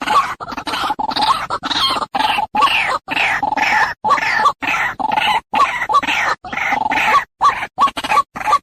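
White-breasted waterhen (ruak-ruak) calling over and over, about two calls a second, each call sliding down in pitch.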